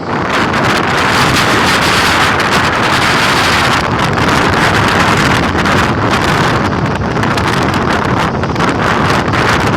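Strong wind buffeting a pitched Naturehike Ultralight 2 tent, its nylon fabric flapping and snapping in quick irregular bursts, over a loud, steady rush of wind on the microphone.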